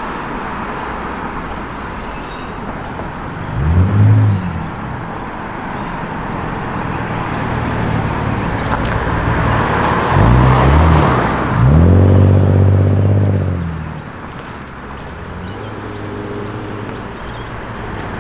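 Cars driving in slowly, their engines briefly revving up and down about four seconds in and again around ten seconds, the loudest and longest rev just after, over a steady hum of traffic.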